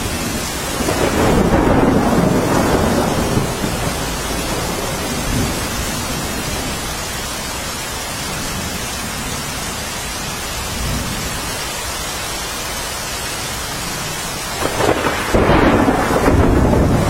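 Steady heavy rainfall with rolling thunder: rumbles swell up about a second in and again near the end, over the constant hiss of the rain.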